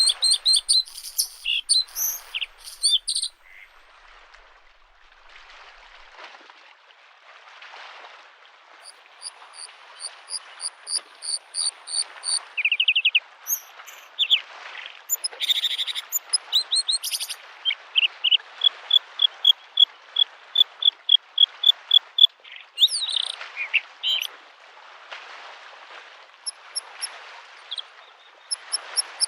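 Bluethroat singing: phrases of fast, repeated high notes and trills, with a silent gap of several seconds after the first phrase. Under the song, small lake waves lap at the shore in soft swells.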